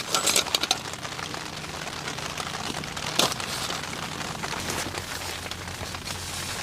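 Steady rain, with a quick run of sharp clicks in the first second and a single louder knock about three seconds in.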